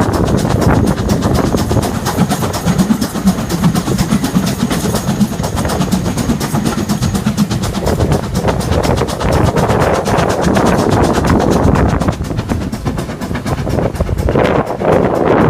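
Heritage steam railway train running along the track: a continuous rattle and clatter of wheels and carriages.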